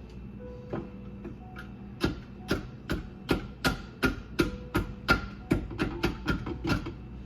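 Repeated sharp metallic knocks on a garbage disposal that is jammed with aquarium rocks: a tool strikes it about a dozen times, nearly three a second, each knock ringing briefly. The knocks start about two seconds in, over a steady low hum.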